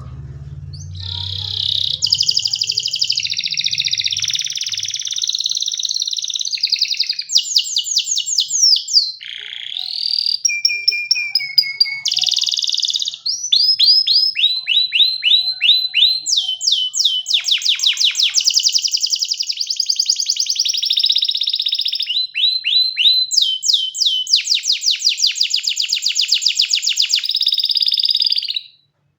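Canary singing one long continuous song of rapid trills and rolls, switching to a new phrase at a different speed every second or two. The song stops abruptly near the end.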